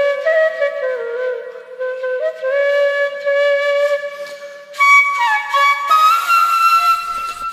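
Background music: a flute playing a melody in held notes that step and slide from one to the next.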